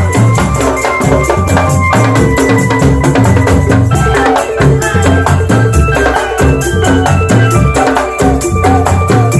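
Drum band playing loud, fast drumming with a steady low beat and a melody of held notes over it.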